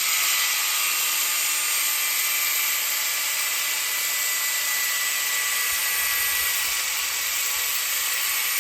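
Electric power tool running steadily under load while cutting steel for the frame's uprights: a high hiss over a thin, steady whine.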